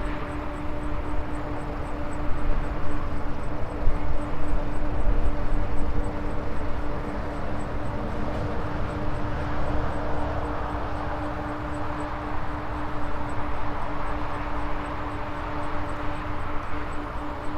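Maxtron Mule folding e-bike under way: its electric hub motor gives a steady whine over the rumble of tyres and wind on the microphone.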